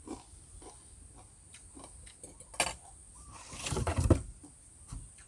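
Close-up eating sounds: scattered small clicks and crunches of chewing and utensils, with a louder burst about four seconds in.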